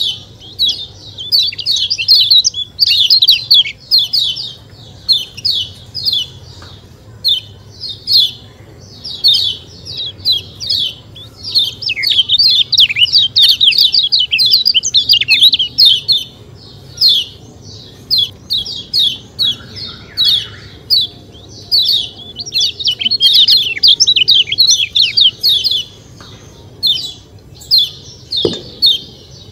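Kecial kuning white-eye calling nonstop in fast runs of sharp, high "ciak ciak" chirps, with brief pauses between runs. A single dull knock near the end.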